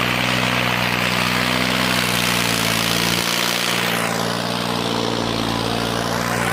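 Tractor diesel engine running steadily, its note shifting slightly a couple of seconds in.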